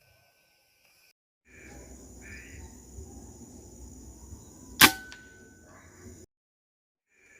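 A single sharp air-rifle shot, loud and sudden, about three and a half seconds into the outdoor sound, followed by a short ringing tone. Under it runs a steady high-pitched insect drone. The sound is cut off abruptly before and after, with silence at the start and near the end.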